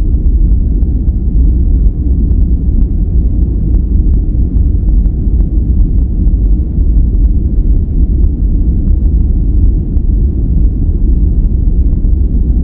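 Continuous relaxation noise track, billed as white noise but deep and dark in tone: a steady even hiss-rumble weighted heavily toward the bass, with little treble.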